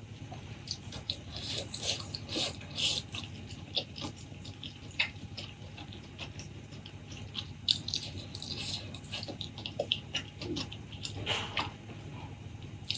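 Close-miked eating sounds: irregular wet chewing, mouth clicks and smacks.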